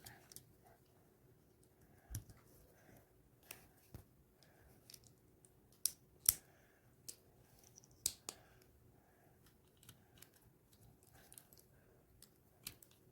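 Plastic LEGO pieces being handled and pressed together, giving scattered, irregular faint clicks and small snaps with soft rustling between them.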